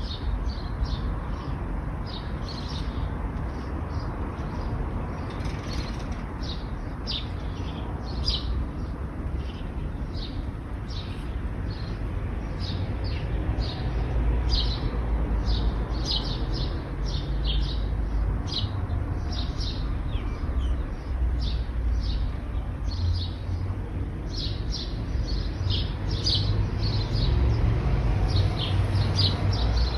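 Small birds chirping busily and continuously in short high notes, over a steady low rumble of road traffic that swells louder around the middle and again near the end.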